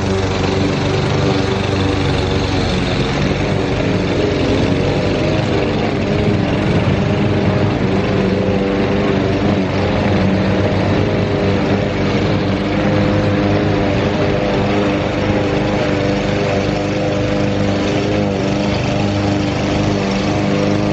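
Walk-behind gasoline push mower's engine running steadily at cutting speed while mowing.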